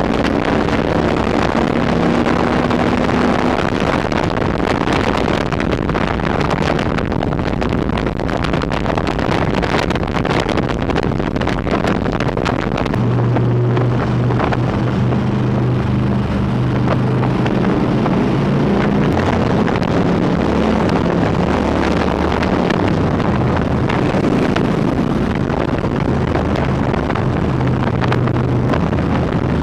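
Harley-Davidson V-twin motorcycle engine running steadily at cruising speed, with wind buffeting the microphone.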